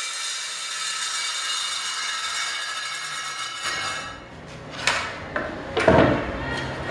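Handheld circular saw running with a steady high whine that stops about three and a half seconds in, followed by a few sharp knocks of wood pieces being handled.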